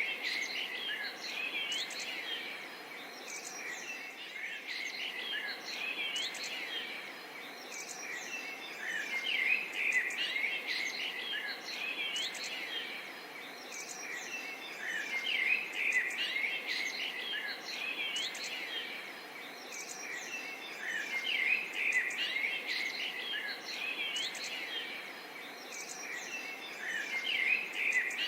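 Forest and swamp ambience: many small birds chirping and calling at once over a steady background hiss, the chorus swelling and easing every few seconds.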